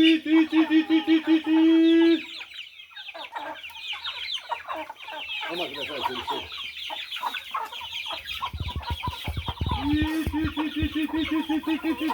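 Flock of chickens clucking and chirping. A loud, fast run of repeated calls comes in the first two seconds and again about ten seconds in, with a few low knocks shortly before the second run.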